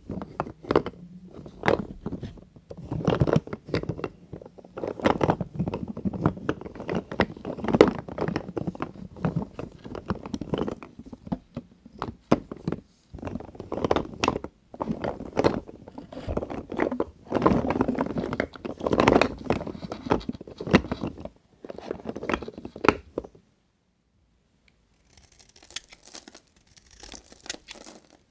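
Bars of dry soap being cut with a knife: a rapid run of crunchy, crackling cutting strokes. Near the end the cutting stops briefly, and softer, hissy scraping follows.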